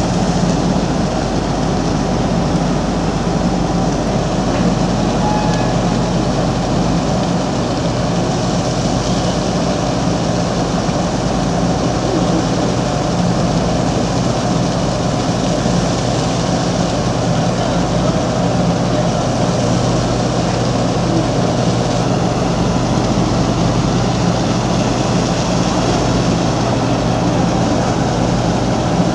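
Large diesel engine running steadily at constant speed, a continuous low hum with no change in pitch.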